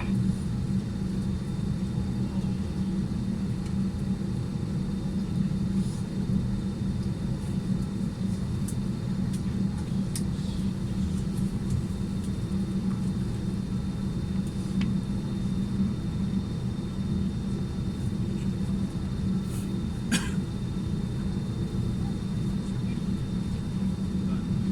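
Steady low hum and rush of air inside a parked airliner's cabin, with a few faint small clicks, the clearest about 20 seconds in.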